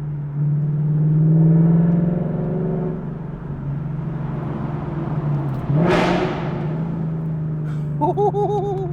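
2018 Mustang GT's 5.0 Coyote V8 through a Corsa Extreme active valve exhaust, heard from inside the cabin, running with a steady deep drone while cruising. The note swells briefly about a second in, with a short rushing burst about six seconds in and a few short warbling notes near the end.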